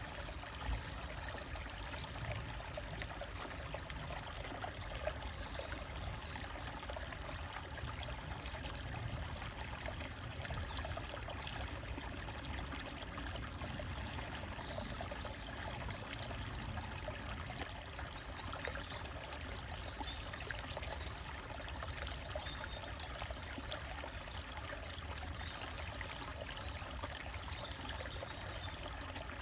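Small forest stream trickling and splashing over rocks in a steady rush of water, with faint high bird chirps now and then.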